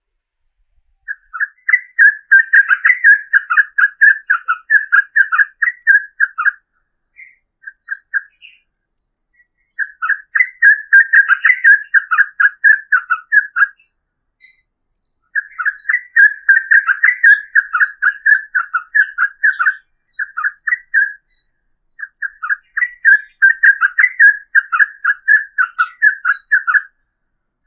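Yellow-vented bulbul (trucukan) singing long, rapid rolling phrases in four bouts of several seconds each, with brief pauses between. Fainter high chips sound above the song.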